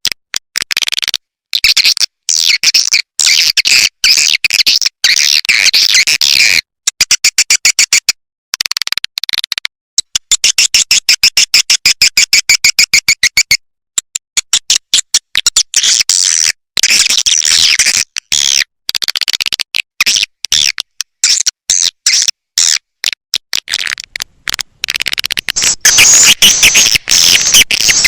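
Swiftlet call recording: rapid high twittering chirps and clicks in repeated bursts with short gaps between, used as a lure call to draw swiftlets into a swiftlet house.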